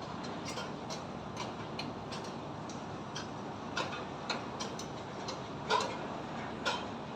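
Steady rumble of distant highway traffic, with irregular light knocks and clinks from construction work, a few every second and louder ones in the second half.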